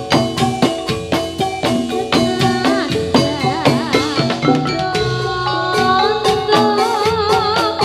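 Javanese gamelan music for a Jathilan dance: bronze metallophones and gongs struck in a quick, steady beat over drums, with a wavering sung melody joining about halfway through.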